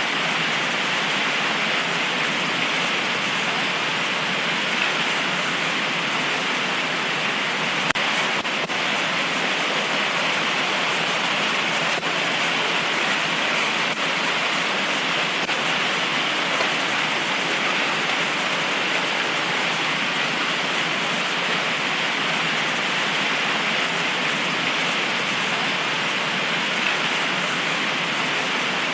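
Heavy tropical rain pouring steadily in an even hiss, with one faint tick about eight seconds in.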